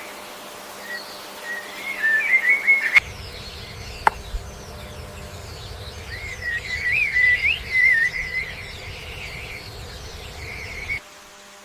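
A bird singing in quick twittering, warbling phrases, first about one to three seconds in and again from about six to nine seconds in, over forest ambience. A single sharp click about four seconds in.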